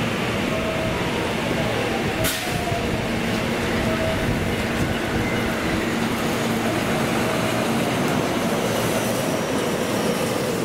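JR West electric train approaching and running along the platform, over the steady hiss of heavy rain. A single sharp click about two seconds in.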